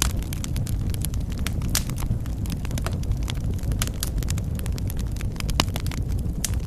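Wood fire burning in a fireplace: a steady low rumble of flames with irregular sharp crackles and pops, several a second, two of them louder, a little under two seconds in and near the end.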